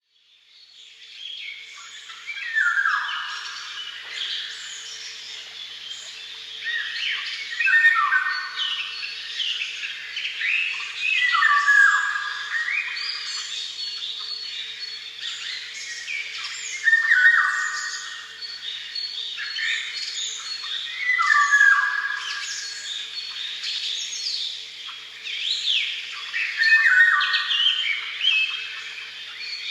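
Wild songbirds singing in a dawn chorus of many overlapping chirps and trills. One bird repeats a loud phrase that sweeps downward in pitch about every four to five seconds.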